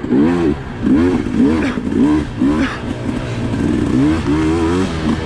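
Sherco SE300 two-stroke single-cylinder enduro bike engine revving up and falling back over and over as the throttle is worked on and off, about twice a second.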